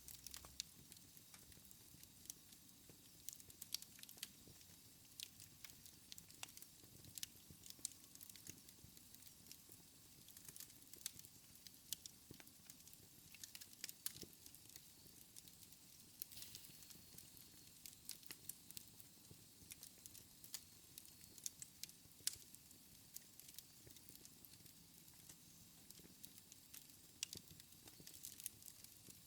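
Wood fire in a fireplace crackling quietly, with frequent small pops and a louder snap every few seconds.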